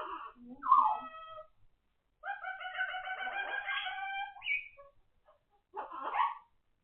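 A pet parrot calling: a short call about a second in, then one long drawn-out call of about two seconds, then a brief call near the end.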